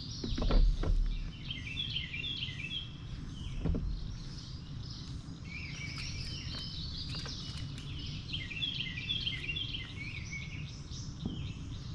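A songbird singing three runs of quick, repeated chirpy phrases over a steady low rumble. A dull low thump about half a second in is the loudest sound, with a smaller one near four seconds.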